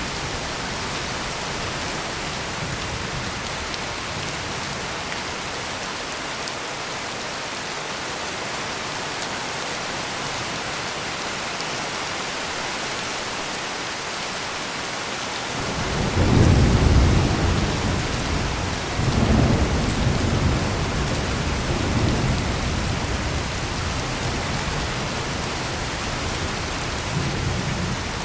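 Heavy rain falling steadily, with a roll of thunder rumbling in about halfway through, swelling twice and slowly fading.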